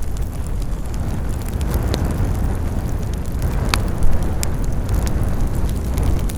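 Campfire burning: scattered sharp crackles and pops from the burning wood over a steady low rumble, with one louder pop a little over halfway through.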